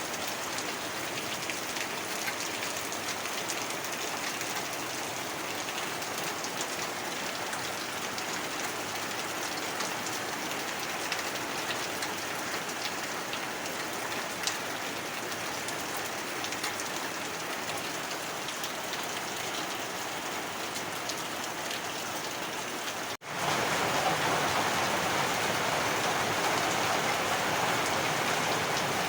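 Heavy rain falling steadily. About three-quarters of the way through it cuts out for an instant and comes back louder and fuller.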